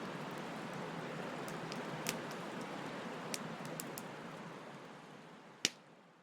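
Wood fire crackling: a steady hiss with scattered sharp pops, the loudest pop near the end. The sound fades out over the last couple of seconds.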